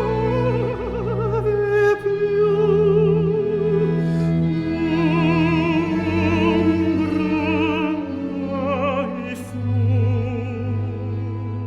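Classical music with an operatic voice singing long held notes with a wide vibrato over a steady low accompaniment.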